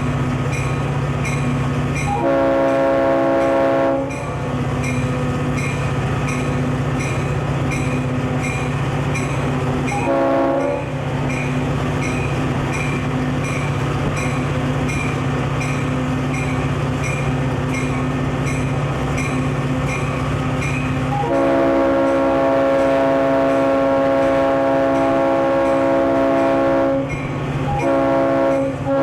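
Diesel freight locomotive running steadily, its air horn sounding four times as a chord of several tones: a long blast, a short one, a very long one of about six seconds, and another near the end.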